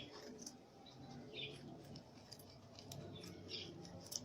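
Small birds chirping in short, faint calls, repeated every second or so, with a few brief clicks.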